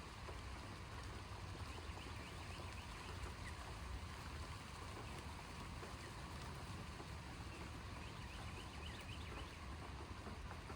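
Steady outdoor storm ambience: a low, even rumble under a faint hiss, with no thunderclap, and a few faint high chirps about two and nine seconds in.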